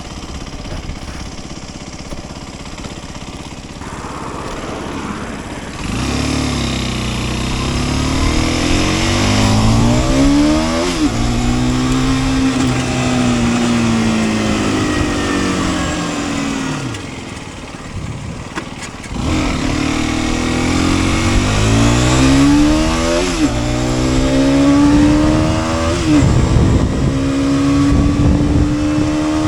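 Sport motorcycle engine pulling hard through the gears: the note climbs, drops back at each upshift, and climbs again. About halfway through it holds, then falls away as the throttle closes. Then it accelerates through the gears once more.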